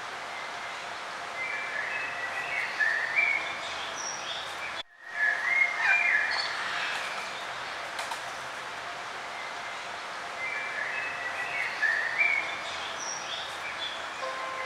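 Songbirds singing short chirping, warbling phrases over a steady hiss of outdoor background noise. The sound cuts out for an instant about five seconds in.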